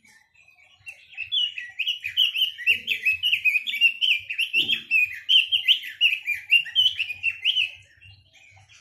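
A quế lâm songbird singing a rapid, varied warbling song of quick whistled notes, starting about a second in and stopping shortly before the end.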